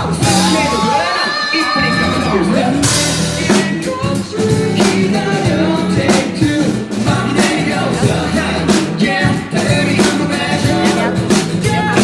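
Live rock band playing: a singer's voice over a steady drum-kit beat and bass notes.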